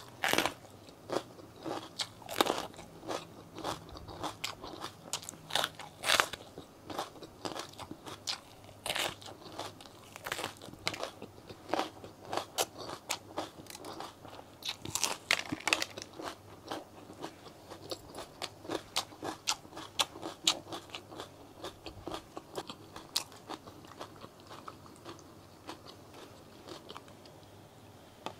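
Close-miked crunching bites and chewing of raw orange bell pepper, a rapid run of sharp crisp crunches that thins out near the end.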